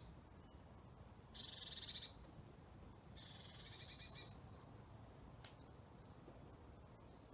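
A songbird singing two short, rapid, high-pitched trills about two seconds apart, followed by a few brief, very high chirps.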